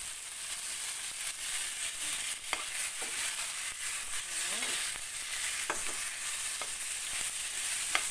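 Chicken pieces frying with sautéed onions and tomatoes in a stainless steel pot, sizzling steadily while being stirred with a spatula. A few sharp clicks and scrapes come from the spatula against the pot.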